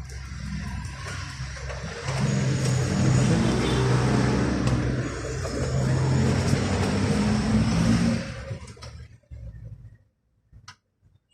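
A motor vehicle's engine running, louder about two seconds in, then fading away near the end.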